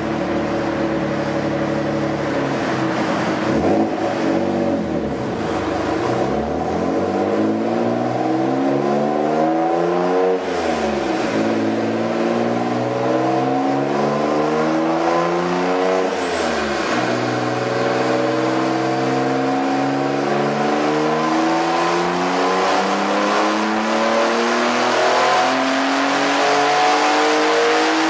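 Twin-turbo V6 of a modified Mitsubishi 3000GT VR4 making a full-throttle pull on a chassis dyno. The engine note climbs, drops sharply at two upshifts about ten and sixteen seconds in, then climbs slowly through the last gear.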